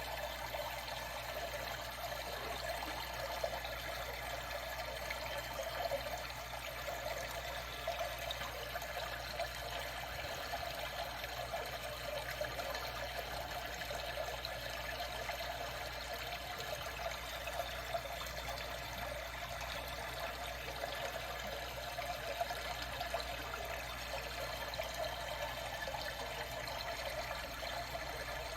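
Water trickling and flowing steadily, with small irregular splashes.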